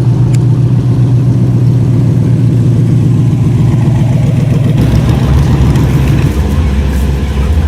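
A car engine running loudly at low revs, deep and steady, its pitch dropping lower about five seconds in.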